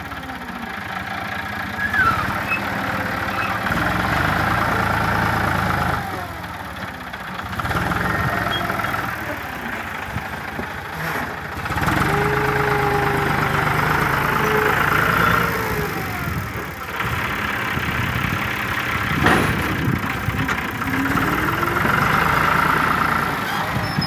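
Tractor engine running under varying load, its revs rising and falling several times as it works.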